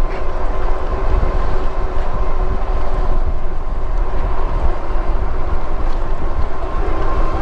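Wind buffeting the microphone and tyre noise while riding an e-bike, a steady loud rumble with a thin steady whine held through it.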